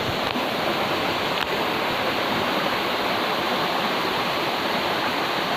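Steady rushing water of a jungle stream flowing over rocks.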